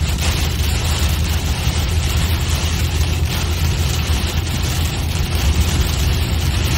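Steady noise of a car being driven, heard from inside: a strong low drone with an even hiss over it.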